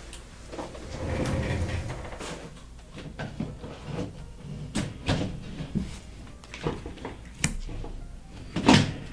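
Trading cards being handled on a tabletop. A short rustle comes about a second in, then scattered taps and clicks as cards are put down, with the loudest knock near the end.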